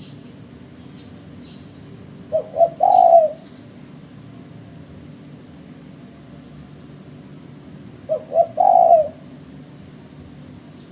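Spotted dove cooing twice, each phrase two short notes followed by a longer rolling coo. A steady low hum sits underneath, with faint chirps from other small birds.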